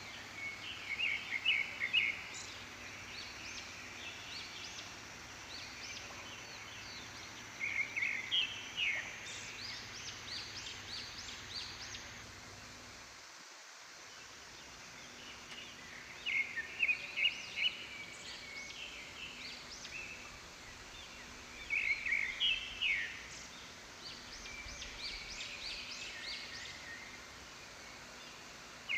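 A bird giving a fast chattering series of notes, repeated every six to eight seconds, over a steady background hiss.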